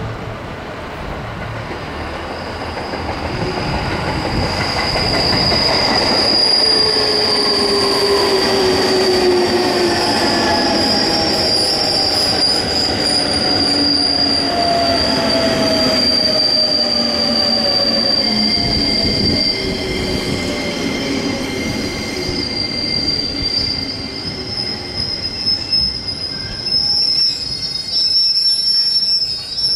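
A JR 205-series electric commuter train runs past, slowing as it arrives at the station: wheels rumbling on the rails under a steady high squeal, with tones that fall in pitch as it slows. The sound builds over the first few seconds and gets weaker and choppier near the end as the last cars go by.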